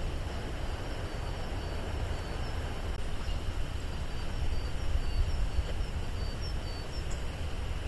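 Steady outdoor background noise with a deep low rumble, and faint short high chirps repeating about every half second.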